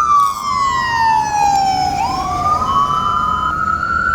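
Fire apparatus sirens on the wail setting, two overlapping: one winds down in pitch while a second starts about halfway through and winds back up, over a low engine rumble.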